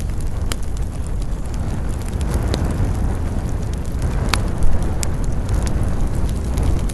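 Wood fire crackling in a fireplace: scattered sharp pops and snaps over a steady low rumble, with one louder pop a little past halfway.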